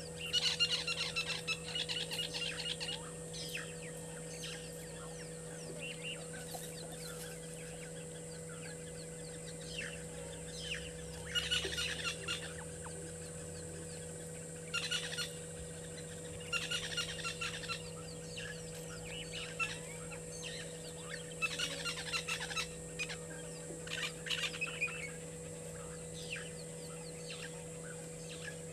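Birds calling in bouts of rapid, harsh cackling notes, each bout a second or two long and repeated several times, the loudest bout at the start. A steady faint hum runs underneath.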